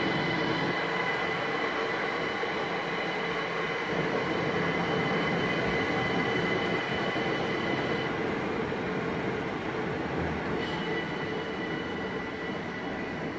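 A green-and-yellow GYSEV 'Ventus' electric multiple-unit train rolling slowly along a station platform: a steady rumble of the running gear with a held high-pitched whine, fading a little toward the end as it moves away.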